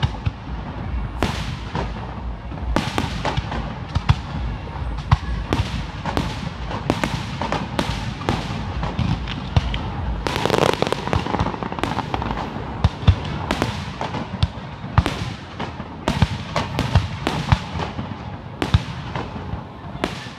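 Aerial fireworks display: shells bursting in a rapid, irregular barrage of sharp bangs, somewhat more than one a second, over continuous crackling and a low rumble.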